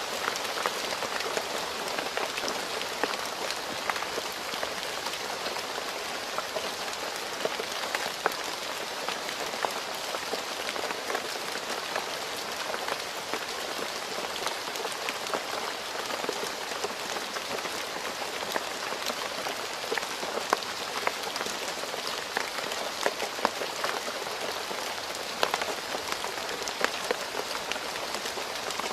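Steady rain falling on a road, a continuous hiss dotted with the sharp taps of individual drops.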